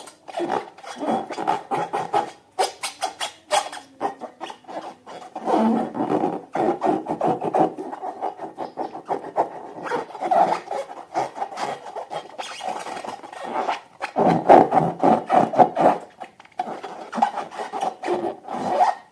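Hands squeezing and working green balloons and their slime: quick wet clicks and squelches over rubbery rubbing, coming in uneven bouts with short lulls.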